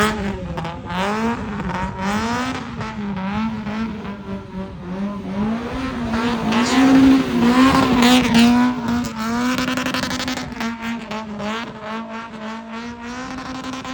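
Car engine held at high revs while drifting, the revs bouncing up and down as the throttle is worked, with some tyre squeal.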